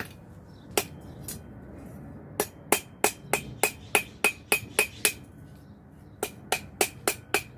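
Sharp metal-on-metal taps with a bright ring, about three a second: a run of about nine taps, a short pause, then about six more near the end.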